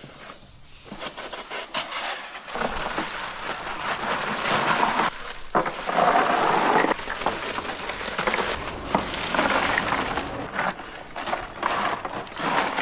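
Bagged ice cubes tipped into a large plastic esky, clattering and rattling down in a dense rush that is loudest in the middle, with short pauses between bags.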